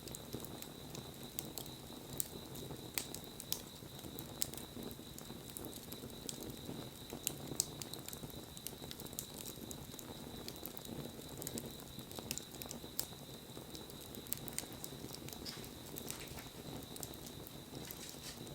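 Wood bonfire burning: irregular sharp crackles and pops from the burning wood over a soft, low rush of flame. A faint steady high-pitched tone sits underneath.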